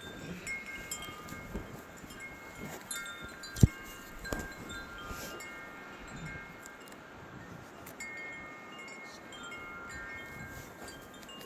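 Wind chimes ringing on and off, several clear tones sounding together and fading slowly, with a single sharp click about three and a half seconds in.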